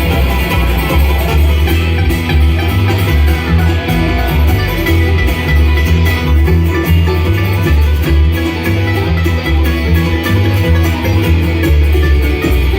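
Bluegrass band playing an instrumental passage: picked acoustic guitar and banjo over a heavy, stepping bass line.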